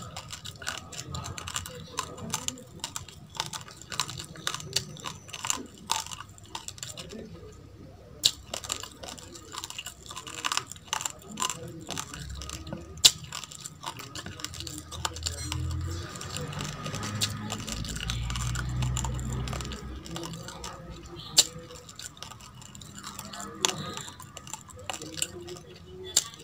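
Close-up chewing of raw basmati rice and baby carrot: dense, sharp crunches, several a second, with a low rumble for a few seconds past the middle.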